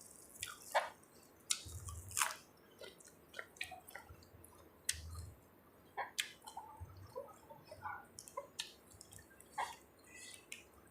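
A person chewing and eating spicy seafood papaya salad, with many small wet mouth clicks and smacks.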